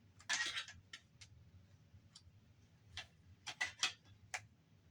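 Sharp metallic clicks and a short rattle from a screwdriver and loose screws working in the sheet-metal chassis of a Samsung Blu-ray player being taken apart, with a quick run of clicks near the end.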